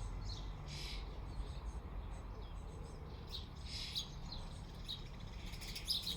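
Small garden birds chirping, a handful of short high calls scattered through, over a steady low rumble.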